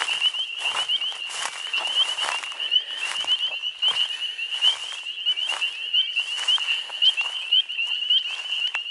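Breeding chorus of many frogs calling in a marsh: a steady, high, dense mass of rapidly repeated calls.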